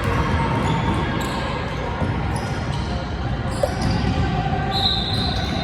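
Basketball bouncing on a gym floor during a game, over steady background chatter in the hall. There is a brief high squeak about five seconds in.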